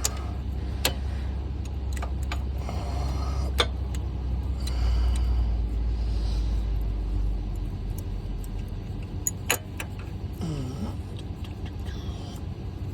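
A steady low rumble, heaviest in the middle, with a few sharp metal clinks from hand tools as a bolt is worked loose on the machine.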